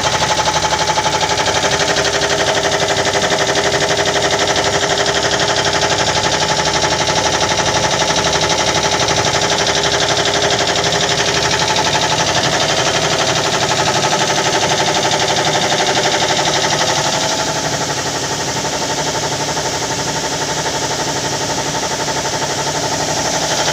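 Industrial air compressor running steadily with a fast, even pulsing hum, a little quieter from about two-thirds of the way through until it picks up again near the end.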